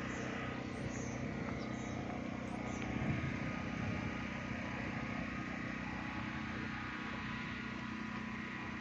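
Steady background noise with a constant low hum, and a few faint short high chirps in the first three seconds.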